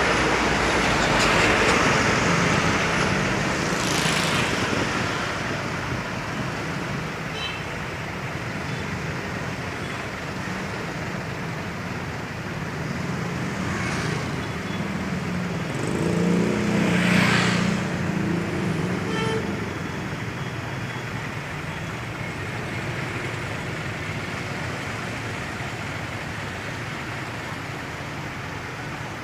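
Road traffic with trucks driving past, their engines droning over steady road noise. One vehicle passes louder about two-thirds of the way through, and there are a few short hisses along the way.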